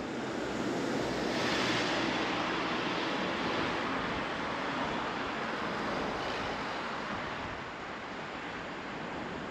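Road traffic rush heard from a bicycle on the road: a passing vehicle's tyre and engine noise swells about a second and a half in, then slowly fades.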